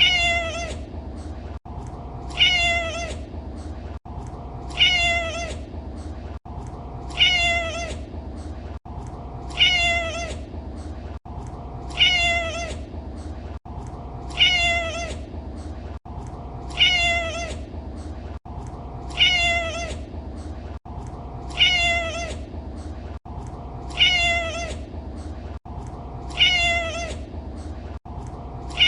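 A domestic cat meowing over and over: the same short meow, falling in pitch, repeats about every two and a half seconds as an identical loop, with a steady low hum beneath.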